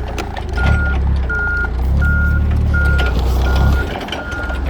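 A vehicle's reversing alarm beeping steadily, one beep about every 0.7 seconds, six beeps in all, over the low rumble of a diesel-type engine that swells for a couple of seconds midway.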